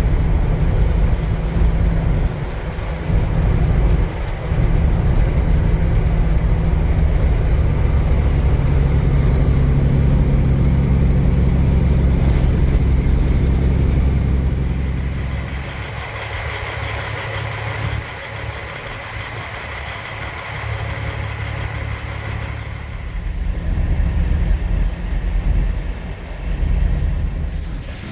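Semi truck's diesel engine running loudly under way, with a thin whine rising in pitch from about ten to fifteen seconds in. After about sixteen seconds the engine note falls away, leaving quieter road and wind noise.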